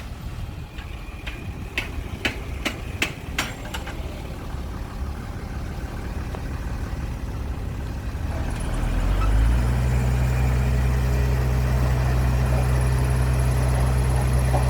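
Heavy diesel engine of construction machinery running low, with a run of about six sharp metallic knocks a couple of seconds in. About nine seconds in, the engine grows louder and holds a steady, even note.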